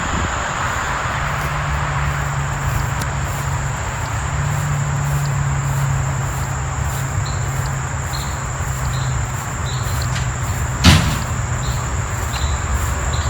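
Steady outdoor rumble with a thin, constant high insect drone and faint chirps over it. A single sharp knock about eleven seconds in.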